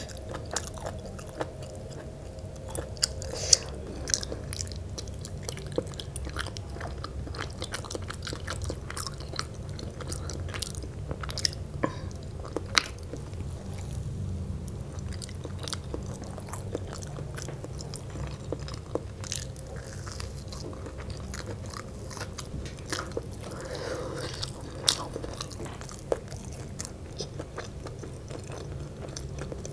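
Close-miked chewing and biting of spicy Lao noodle salad eaten by hand: wet mouth sounds with irregular sharp clicks and occasional crunches, over a low steady hum.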